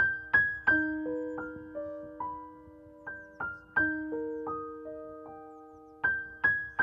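Gentle background piano music: single notes and broken chords struck and left to ring and fade, with louder accented notes about every three seconds.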